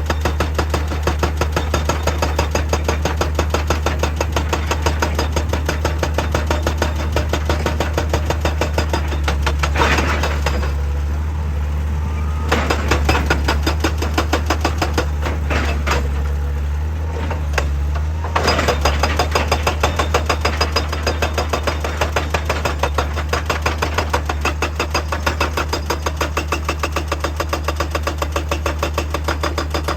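Heavy diesel machinery running with a rapid, even hammering of a percussive rock tool, several blows a second. The hammering pauses twice near the middle while the engine keeps running.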